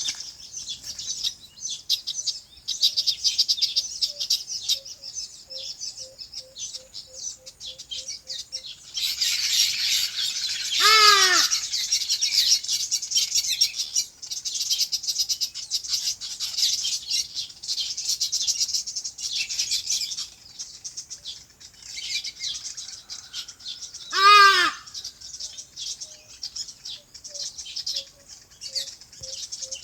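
A chorus of small birds chirping continuously in high, dense twitters. Twice, about a third of the way in and again past the middle, a louder, lower call rings out above the chorus.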